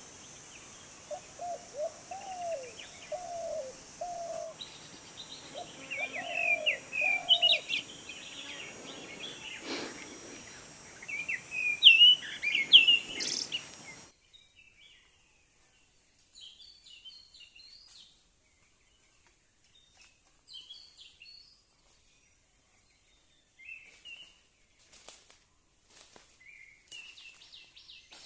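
Wild birds calling and chirping in forest: a low warbling call and bright higher chirps over a steady high insect-like hiss, which cuts off suddenly about halfway. Sparse short chirps follow, with a few sharp clicks near the end.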